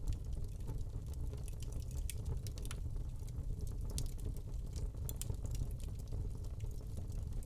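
Wood fire burning in a fireplace: a steady low rumble of the flames with scattered crackles and pops throughout.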